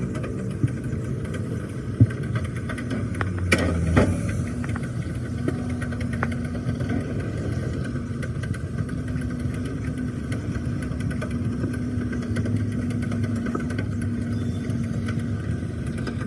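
An engine running steadily at idle, with a few sharp knocks in the first four seconds.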